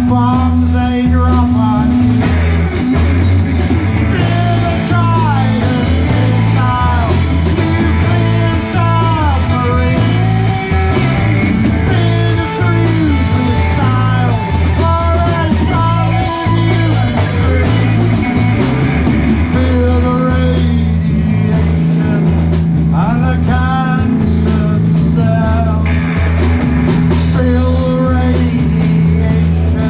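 Live rock band playing loudly: electric guitar, bass and drums, with a lead line of bending, sliding notes over held bass notes.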